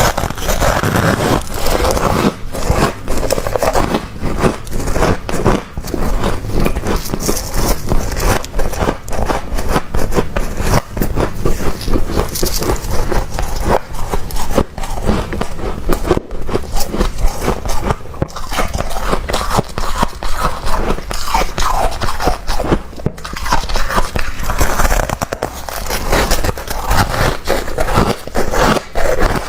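Thick freezer frost being scraped and crunched up close, a dense run of crackly scrapes with no let-up.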